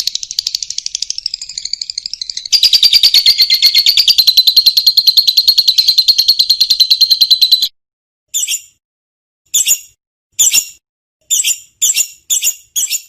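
Lovebird giving a long, rapid chattering trill (the 'ngekek'), which gets louder about two and a half seconds in and breaks off near eight seconds. After it come a series of short, sharp chirps.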